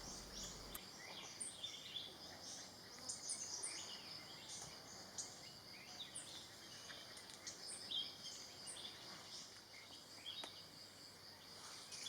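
Forest ambience: many short, high bird chirps scattered over a steady high-pitched insect trill.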